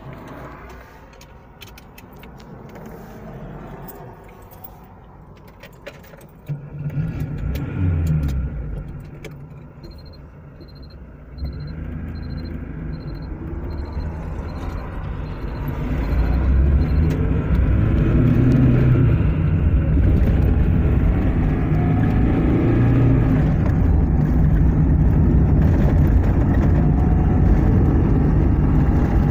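Car driving, its engine and road noise heard from inside the cabin, growing louder in steps as it picks up speed. A short high beep repeats about twice a second for several seconds in the middle.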